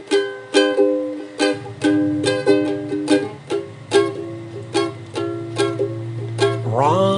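Ukulele strummed as a song's intro, about two chords a second, with a low steady drone underneath from about a second and a half in. A voice starts singing near the end.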